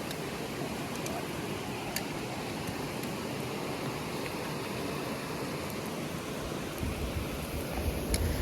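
Steady rushing of a waterfall, an even hiss of falling water, with a few faint clicks. A low rumble joins about seven seconds in.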